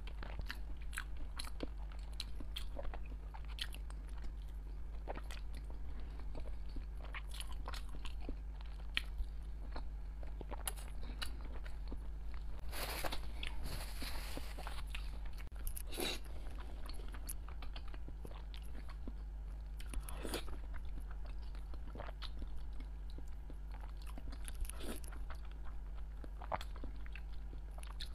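A person chewing and eating soft eggs close to a clip-on microphone: wet chewing with many small sharp clicks and smacks, and a brief louder noisy patch about thirteen seconds in. A steady low hum runs underneath.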